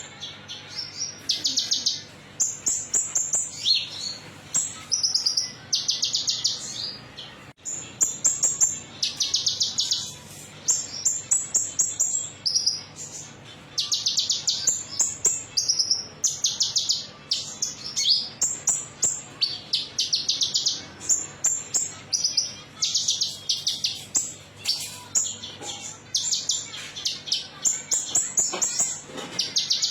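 Konin (kolibri ninja sunbird) song: rapid high-pitched trills and chirps repeated in quick succession, with short pauses about seven and thirteen seconds in, over a faint low hum. It is a 'metalik' lure song, used to prompt a caged bird to answer.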